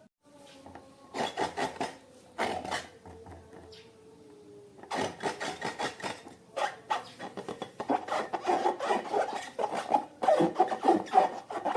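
Sticky slime being stirred and squished, a wet crackling rasp in quick strokes: two short bursts, then near-continuous mixing from about halfway through.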